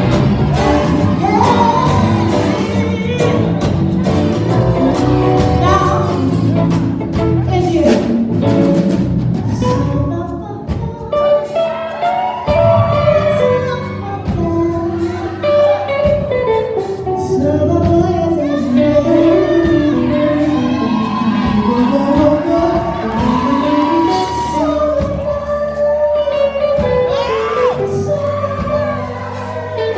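A song: a voice singing a melody over instrumental backing.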